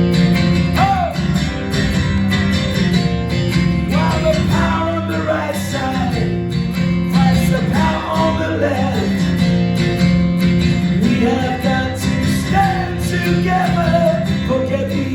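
Live acoustic rock music: strummed acoustic guitars playing an instrumental passage between verses, with a wavering melody line over the chords.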